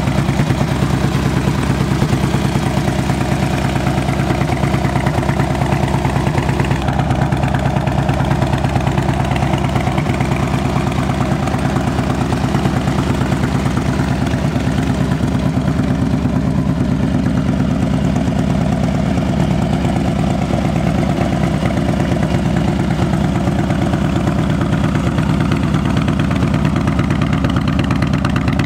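2013 Harley-Davidson Street Glide's V-twin engine idling steadily, with an even run of exhaust pulses.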